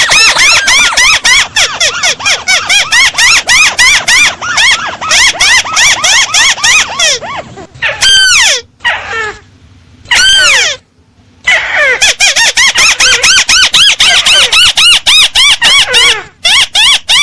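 Recorded crake (burung tikusan) call played as a bird-trapping lure: a fast, loud series of high arched chirps, breaking off around the middle for a few slower falling notes before the rapid series starts again.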